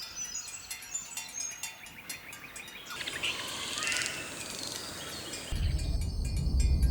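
Rainforest birds chirping and calling, many short quick notes. A low, deep sound comes in about five and a half seconds in.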